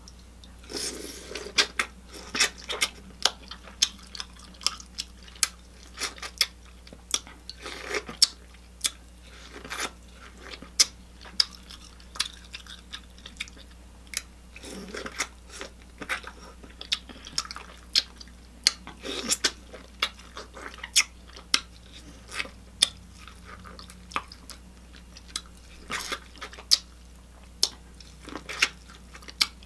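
A person chewing and smacking their lips while eating sweet corn, with sharp wet smacks coming irregularly, about one or two a second.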